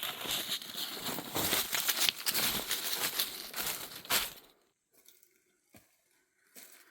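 Rustling, crinkling noise with a few sharp clicks, which stops suddenly about four and a half seconds in, leaving only a few faint knocks.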